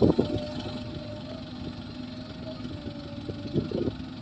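Diesel engine idling steadily, with a loud thump right at the start and a few more knocks about three and a half seconds in.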